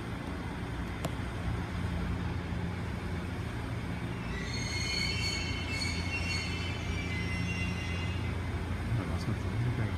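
Electric train running into a station platform and slowing: a steady low rumble, with a high-pitched wheel and brake squeal rising over it for a few seconds in the middle.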